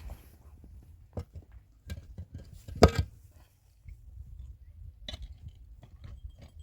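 Irregular knocks and clicks, with one louder knock about three seconds in, over a low rumble.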